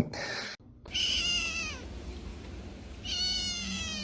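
A cat meowing twice, two drawn-out high meows that each fall in pitch.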